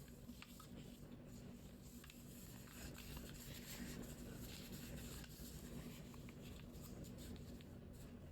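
Paper being handled and folded: faint rustling and small crinkling clicks, a little louder in the middle, over a low steady hum.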